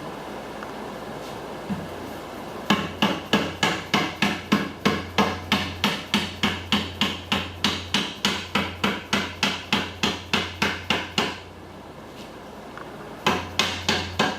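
Rapid, even hammer blows, about three or four a second, beating aluminium channel to bend it into a curved rain gutter. They stop about eleven seconds in and start again near the end.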